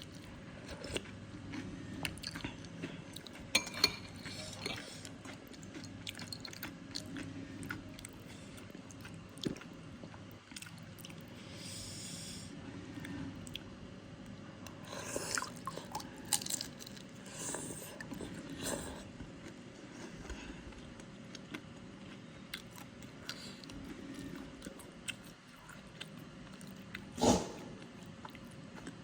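Close-miked chewing and biting of soto mie noodle soup: wet mouth clicks and smacks with occasional crunches. One louder, sudden sound comes near the end.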